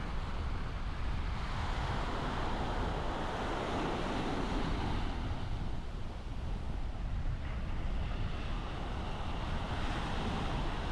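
Surf washing up on a beach, swelling and easing every few seconds as waves come in, with wind rumbling on the microphone.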